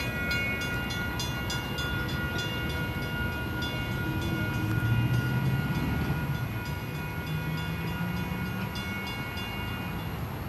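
A train running past: its wheels click in quick regular runs over the rail joints, over a steady high whine and a low rumble that swells about halfway through.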